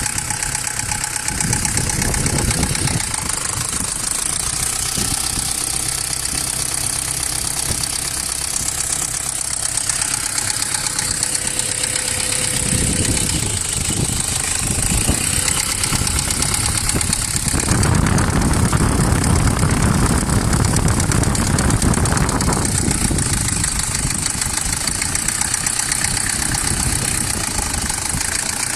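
Toyota Hilux Surf 185-series engine running with a rattling knock ("karakara"), swelling louder for a few seconds past the middle. The rattle is blamed on oil starvation from a blocked oil passage, on a vehicle with about 260,000 km.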